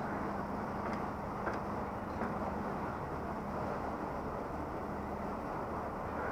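Steady riding noise picked up by a helmet-mounted action camera on a moving motorbike: rushing wind and road noise with a constant low engine hum, and a few faint clicks about one to two seconds in.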